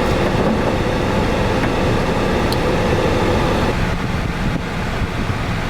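Steady rumble and hiss inside a car's cabin, with a hum that fades out about two-thirds of the way through.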